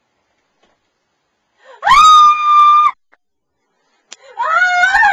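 A girl screaming in fright: one long, high-pitched scream held for about a second, then after a short pause a wavering, sobbing cry that starts near the end.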